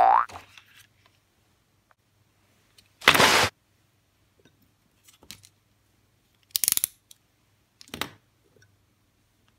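Handling noise as craft tools, a metal snap-off utility knife and wooden-handled linocut gouges, are laid out on a sheet of card on a table. There are a few separate short clatters and scrapes, the loudest about three seconds in, with a short rising squeak at the very start as the card goes down.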